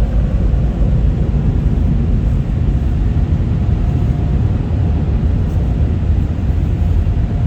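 Onboard dryer blowers of a PDQ ProTouch Tandem car wash blowing air over the car, a loud steady rush, with a faint steady whine joining about halfway in.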